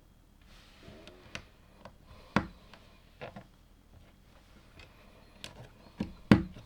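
LEGO plastic pieces being handled and pressed together: a series of sharp clicks and taps, the loudest about two and a half seconds in and again near the end, with light rustling between.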